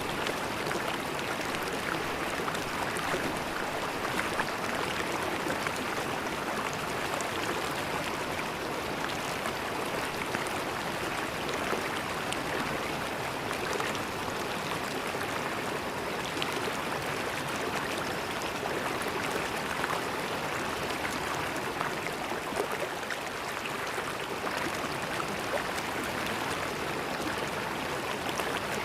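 Shallow river water flowing and splashing over rocks: a steady rushing with fine close-up gurgles.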